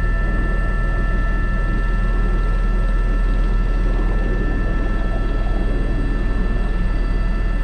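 Airbus H125 (AS350 B3) helicopter running steadily in flight, heard from the cockpit: a constant low rotor beat under a steady high turbine and gearbox whine.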